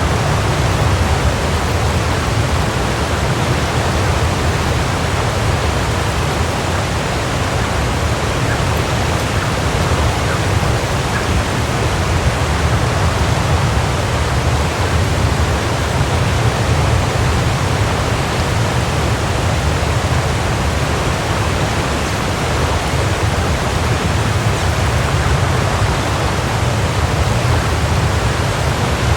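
Waterfall: water falling and crashing in a steady, unbroken rush, heaviest in the low end.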